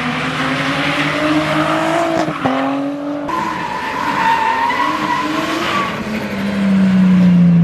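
Drift cars with engines held at high revs and tyres squealing as they slide, in short clips cut together. Near the end one loud engine note drops a little in pitch.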